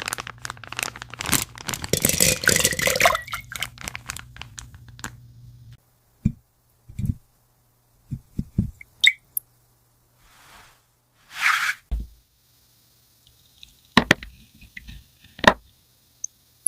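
Close-up crinkling and tearing of toy packaging for the first few seconds, then scattered sharp clicks and knocks of small plastic toy pieces being handled, with a brief rustle in the middle.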